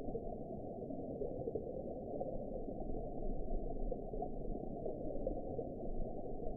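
Steady, muffled underwater ambience: a low, even wash of water noise with no distinct events.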